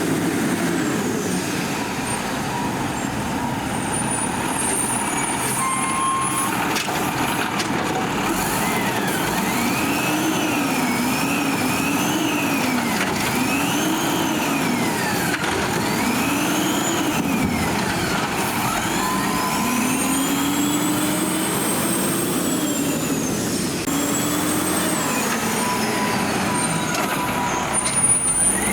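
Diesel engine of a Peterbilt 320 garbage truck running, revving up and down over and over, each rev a rise and fall in pitch lasting a second or two, with steadier running before and after.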